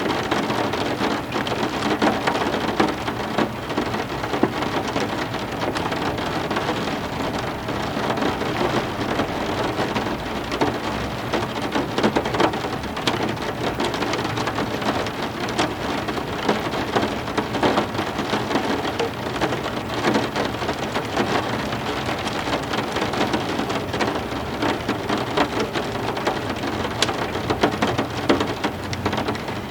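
Heavy rain falling steadily: an even hiss with many sharp individual drop hits throughout.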